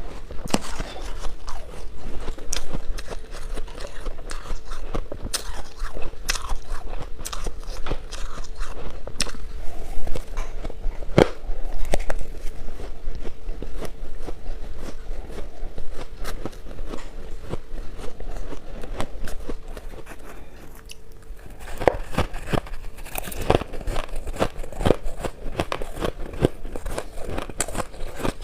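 Close-miked chewing of crunchy shaved ice: a steady run of sharp crunches and crackles, with a short lull about two-thirds of the way through before the crunching picks up again.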